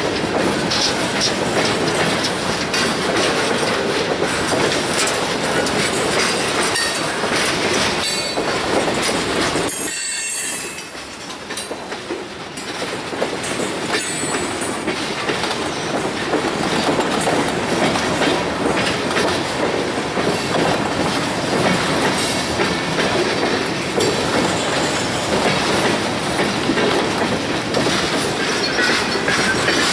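Ore train rolling past, its steel wheels clattering over the rail joints and squealing. The noise dips briefly about ten seconds in.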